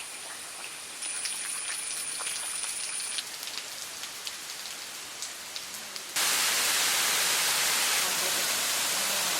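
Steady hiss of falling or running water, with faint scattered ticks in the first few seconds. It jumps abruptly to a much louder, brighter hiss about six seconds in.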